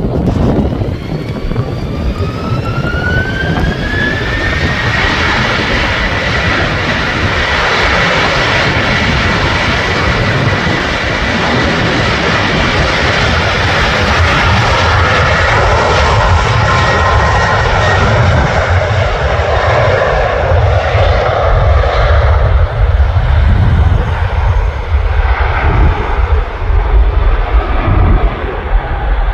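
Jet airliner engines spooling up: a whine rises over the first few seconds, then holds steady. The engines run loudly under a deep rumble that grows stronger later on.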